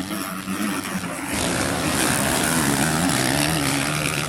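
Motocross dirt bike engines revving, the pitch dipping and climbing again over a few seconds.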